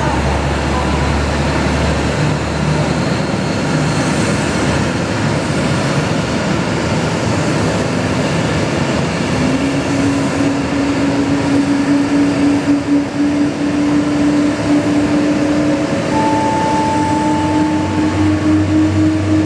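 Boeing 777-200 airliner running at the gate: a loud, steady rush of jet turbine noise. About halfway through, a whine comes in and slowly creeps up in pitch, as an engine spools up during start.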